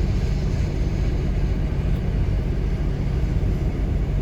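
Steady low rumble of a long freight train rolling past.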